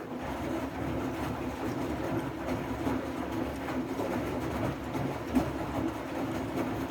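Siemens i-Dos washing machine running a wool/delicate cycle: a steady mechanical hum and rumble of the drum and water that cuts in suddenly and holds an even level.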